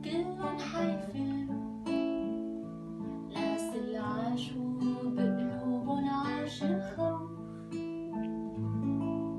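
Acoustic guitar strumming chords, a new chord struck about every second.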